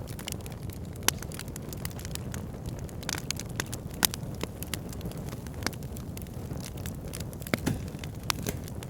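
Fire in a backyard fire pit crackling, with frequent sharp pops and snaps, a few louder ones, over a steady low rumble of the flames.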